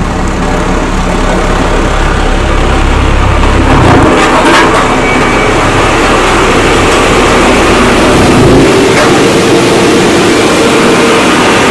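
Heavy engines running at a road tarmacking site, steady throughout, with a louder noisy burst about four seconds in.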